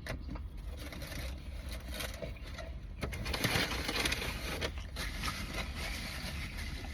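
Eating a burger: irregular chewing and rustling, louder a few seconds in, over a low steady hum.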